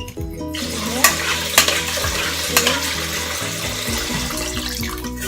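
A wet mix of rice, beans, ground chicken and carrot being stirred in a cooking pot, a steady wet rustling with a few knocks of the spoon against the pot. Background music plays underneath.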